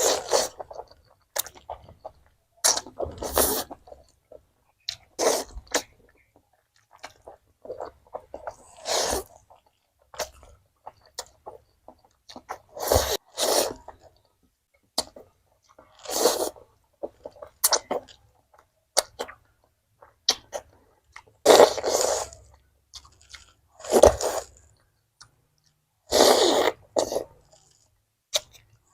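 Close-miked eating: short, noisy bursts of biting, chewing and mouth sounds every one to three seconds, with silent gaps between.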